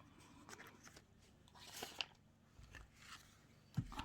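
Faint rustling and handling of paper pieces, with a few light clicks and taps; a brief rustle about halfway through and a sharper tap near the end.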